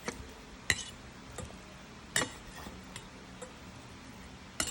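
A metal utensil clinking against a bowl while mashing eggs: a handful of sharp, uneven knocks, about one a second.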